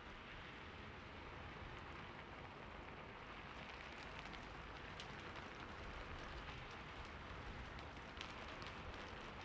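Steady rain falling on a roof, a soft even hiss with scattered sharp drop ticks that grow more frequent in the second half.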